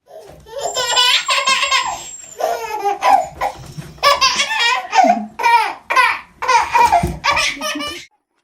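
High-pitched, hearty laughter in several long bouts with short breaths between, cutting off about eight seconds in.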